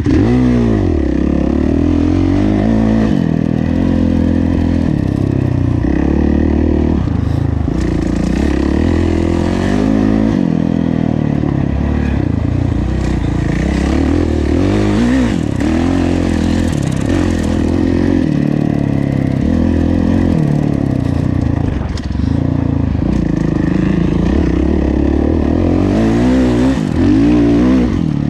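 Kawasaki KX450F motocross bike's single-cylinder four-stroke engine under hard riding, its revs climbing and dropping again and again through throttle and gear changes.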